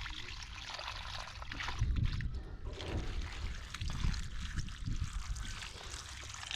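Running water trickling steadily, with irregular low rumbling underneath.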